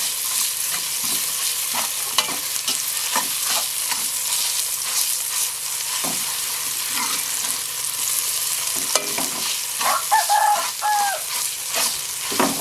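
Sliced shallots and garlic frying in oil in a wok, sizzling steadily, while a metal ladle stirs and scrapes them around the pan in frequent short strokes.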